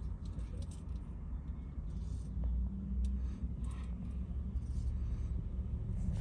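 A steady low rumble, with faint scrapes and clicks of an oil filter wrench being worked to loosen a tight oil filter.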